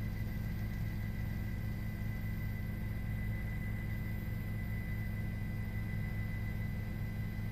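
News helicopter cabin noise heard through the crew's microphone: a steady low drone with a thin high whine over it.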